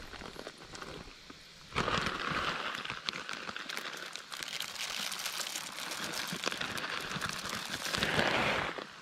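Wild bird seed mix of sunflower seeds, hemp and peanuts pouring out of its bag: a dense, steady rush of tiny clicks. It starts about two seconds in and stops near the end, with the bag crinkling before the pour.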